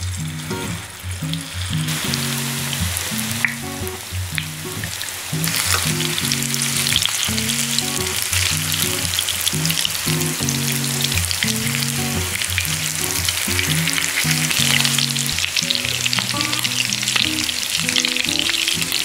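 Egg-soaked baguette slices sizzling and crackling as they fry in hot fat in a pan; the sizzle gets louder and denser about five seconds in. Light background music plays underneath.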